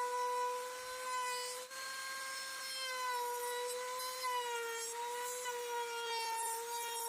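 Small electric power tool running with a steady whine while working wood, its pitch sagging slightly now and then under load, with a brief break about a second and a half in.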